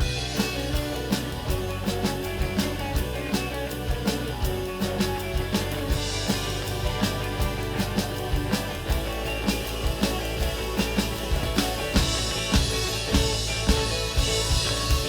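Live rock band playing an instrumental passage: drum kit with steady beat and cymbals, bass and guitar.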